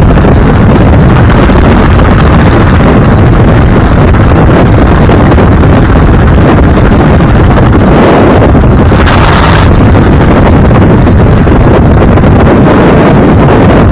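Steady road and wind noise from a moving vehicle, with wind buffeting the microphone hard, and a brief louder hiss about nine seconds in.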